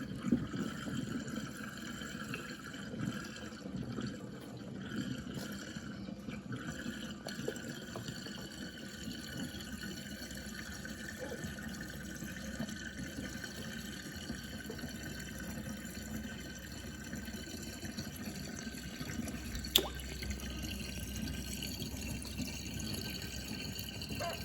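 Water swirling down a kitchen sink drain in a whirlpool, a steady gurgling with drips, and a single sharp click about twenty seconds in.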